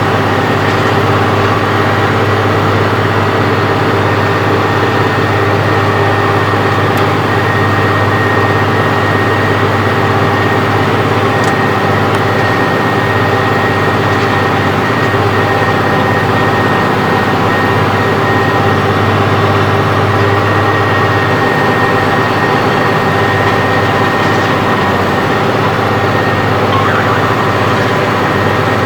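Case Magnum 7210 tractor's diesel engine running steadily at constant speed, with a steady high whine over the low engine note, while working a harrow.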